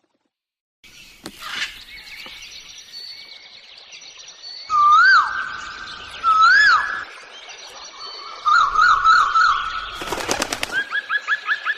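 Birds calling: two loud whistled notes that swoop up and down, a quick warbling trill, then a fast run of short rising notes near the end, with thinner high calls steady behind. A short burst of noise comes about ten seconds in.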